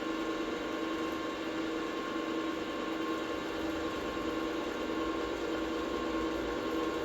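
Electric motor of a workshop machine tool running steadily: an even hum with a constant whine and no change in speed.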